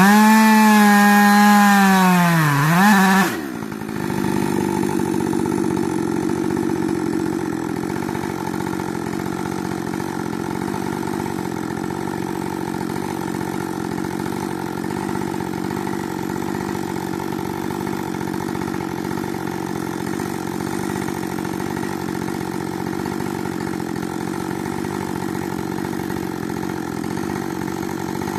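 Rebuilt Husqvarna 562 two-stroke chainsaw running at high revs, its pitch sagging and recovering, then let off about three seconds in and settling to a steady idle.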